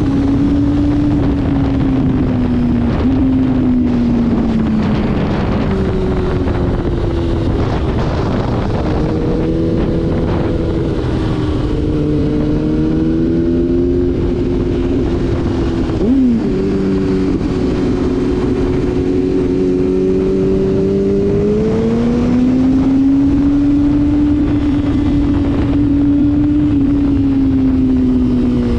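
Motorcycle engine under hard use on a race track, its pitch climbing and falling with the throttle and stepping at gear changes, with a sharp shift about halfway through, over constant wind rush.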